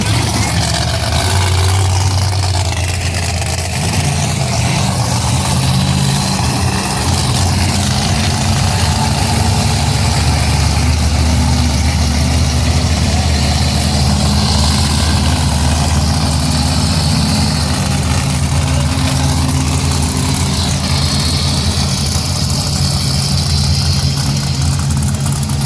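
Monster truck engine running loud and steady at a low idle, its pitch shifting slightly now and then.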